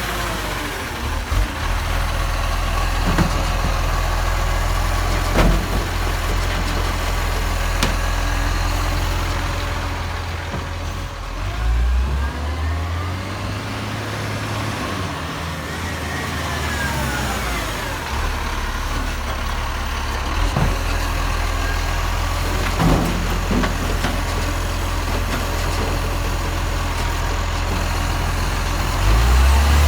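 Garbage truck's engine running at a steady low idle, its pitch shifting about twelve seconds in and rising again near the end, with a few sharp knocks and faint rising-and-falling whines over it.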